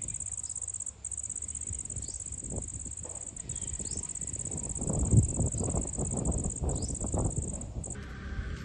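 A high-pitched insect trill, cricket-like, running steadily with short breaks about one, three and a half and eight seconds in. Under it come irregular low thumps and rumbles, the loudest about five seconds in.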